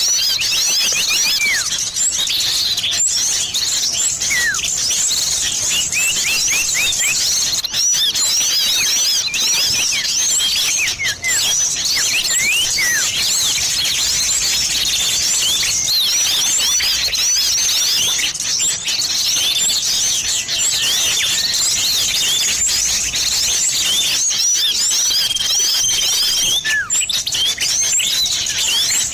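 Dense, continuous chorus of many small songbirds chirping and twittering over one another: a bird-lure recording of small noisy birds, billed as mixing common iora (cipoh) calls with other small birds. A single held whistle stands out briefly near the end.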